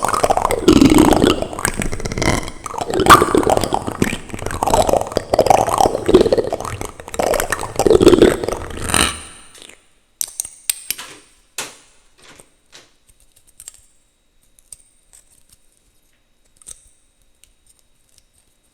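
Plastic utensils rubbing and scraping directly on a microphone, loud and close, for about the first half. Then the rubbing stops and only scattered light clicks and taps follow, growing sparser and fainter.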